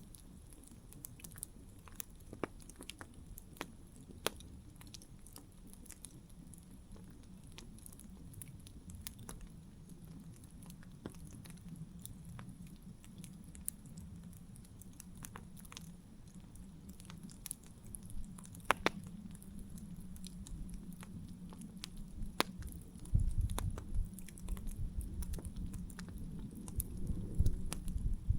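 Wood campfire crackling: irregular sharp pops and snaps over a low rumble. The rumble and pops grow louder in the last few seconds, with a few stronger pops.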